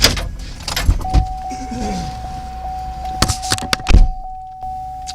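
Car door handling: a series of clicks and knocks, then a heavy thunk about four seconds in as a car door shuts, cutting off most of the outside noise. A steady high tone sounds from about a second in, lasting to the end.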